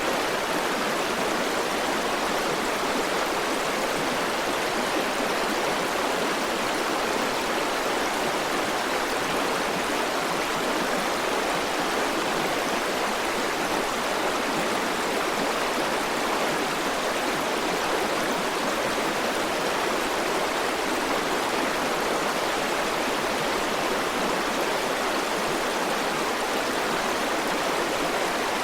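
River water rushing steadily over rocks, a continuous even flow without breaks.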